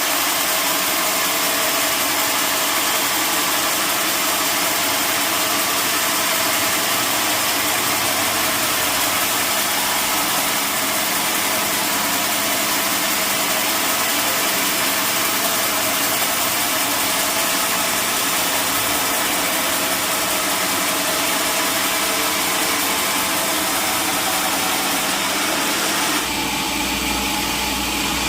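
Sawmill machinery running steadily, with a change in its sound about two seconds before the end.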